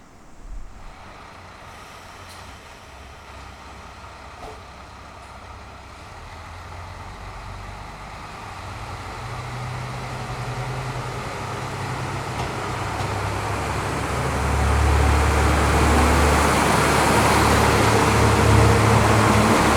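JR Shikoku KiHa 185 series two-car diesel multiple unit pulling away from a station, its diesel engines building under power. The engine sound grows steadily louder and is loudest over the last few seconds.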